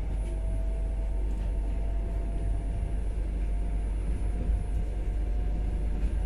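Passenger train carriage running, heard from inside the sleeper car: a steady low rumble with a faint steady whine above it.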